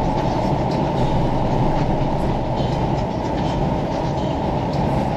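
Steady road and tyre noise inside a car's cabin at highway speed: an even, low rumble with no breaks.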